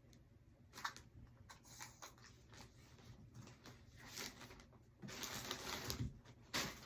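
Faint handling noise: scattered light clicks, a stretch of rustling about five seconds in, and a sharper click near the end.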